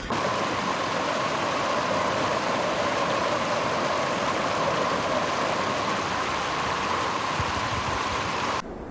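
Floodwater rushing steadily in a continuous roar, cutting off suddenly near the end.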